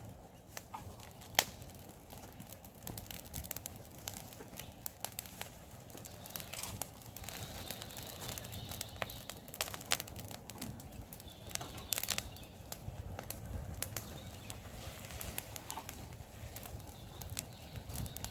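Wood campfire crackling, with irregular sharp snaps and pops; one much louder pop about a second and a half in.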